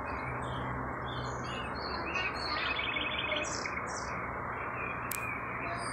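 Small birds chirping in the trees, with a quick trill of repeated notes about three seconds in. Underneath is a steady rushing background noise, and there is a single sharp click near the end.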